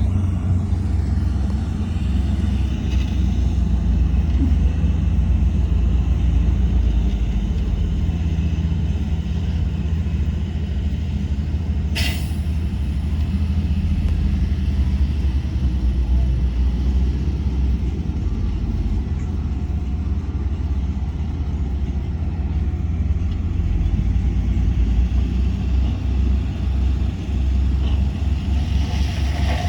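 Heavy diesel earthmoving machinery running steadily with a deep rumble, with one brief sharp sound about twelve seconds in.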